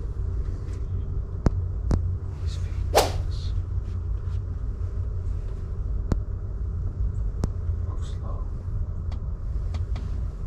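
Low steady rumble of wind on the microphone, with a few sharp clicks and a louder brief rustle about three seconds in.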